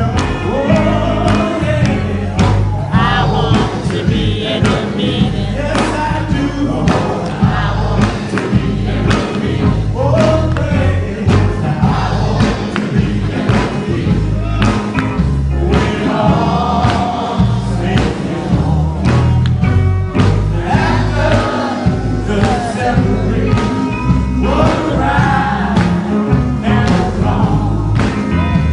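Live gospel quartet music: male voices singing in harmony over a band with a heavy bass line and a steady drum beat.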